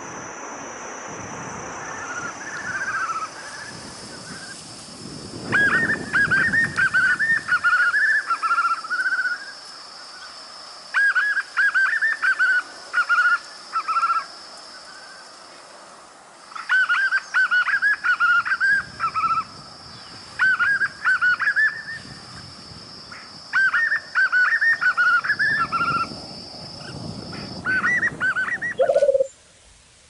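White-eared puffbird singing: loud bouts of quick, bouncing notes, repeated every few seconds, over a steady high whine in the background.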